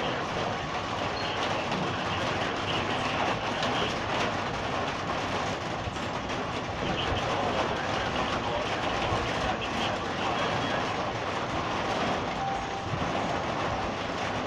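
Marble-sized hail and rain pelting down steadily, a dense, even clatter of many small impacts.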